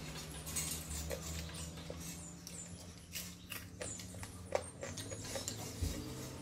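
Close-up eating sounds of someone chewing rice: a string of small, irregular mouth clicks and smacks, with a faint steady low hum underneath.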